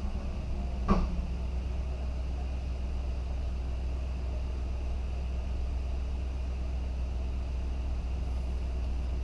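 2004 Lexus GX 470's 4.7-litre V8 idling steadily, with a single short knock about a second in.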